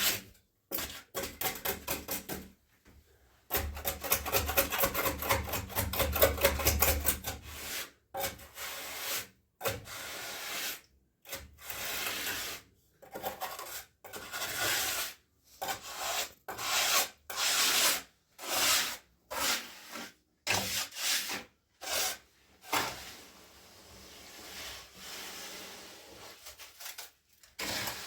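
A hand tool being scraped or rubbed over a hard surface in a long series of strokes, each lasting about half a second to a second with short pauses between, and a fast run of quick rasping strokes a few seconds in.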